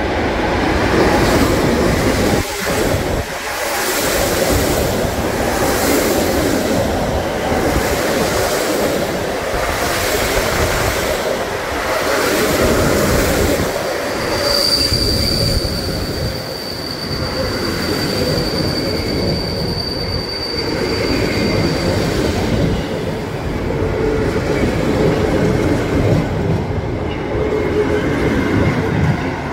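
Train running past on the rails: a continuous rumble with evenly spaced clicks of the wheels over rail joints. About halfway in, a high, steady wheel squeal comes in and lasts for several seconds.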